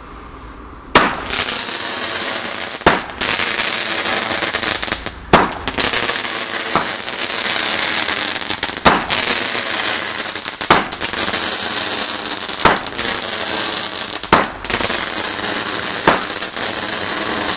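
A ground firework burning with a steady loud hiss from about a second in, firing a sharp bang upward roughly every two seconds, about nine shots in all.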